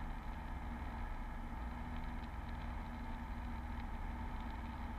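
Beechcraft V35 Bonanza's piston engine running with a steady, even drone, heard inside the cabin, as the plane sits on the runway during a stop-and-go.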